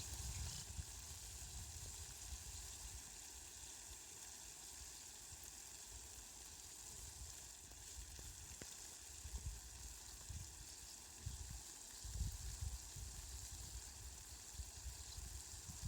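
Steady hiss of falling rain, fairly faint, with irregular low rumbling swells underneath.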